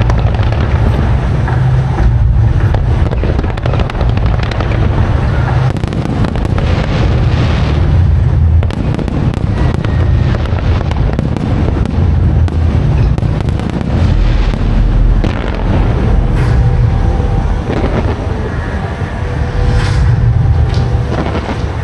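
Aerial fireworks display going off in a continuous barrage: rapid overlapping bangs and crackling over heavy low booms.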